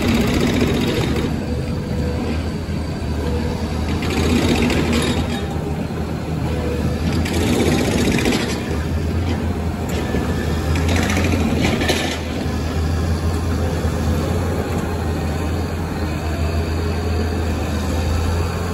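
Caterpillar 120M motor grader's diesel engine running steadily, swelling louder for about a second several times, every three to four seconds.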